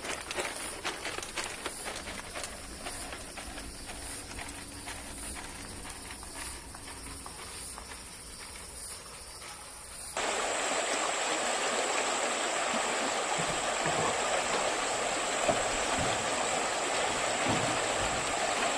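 Faint scattered clicks and taps, then, after a sudden cut about halfway through, steady rushing water like a stream.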